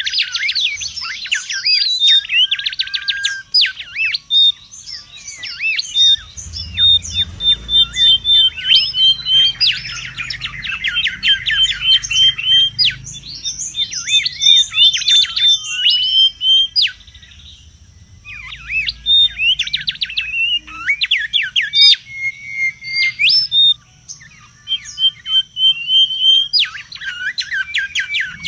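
Mangrove whistler calling busily: dense runs of rapid chirps, fast repeated notes and sharp rising whistles, broken by a couple of short pauses. This is the agitated calling used as a lure and tutor recording for the species.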